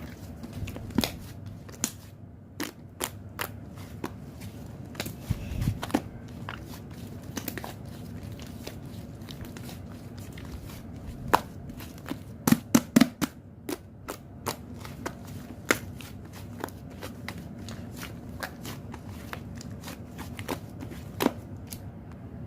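Slime being squished and worked by hand, giving irregular sharp clicks and pops, with a quick run of louder pops about twelve to thirteen seconds in.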